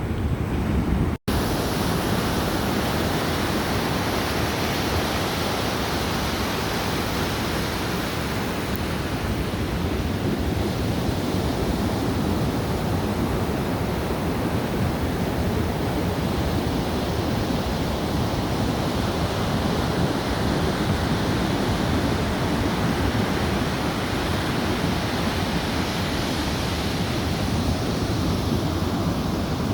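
Steady wash of Pacific Ocean surf with wind noise on the microphone, an even unbroken rush, cut by a brief dropout about a second in.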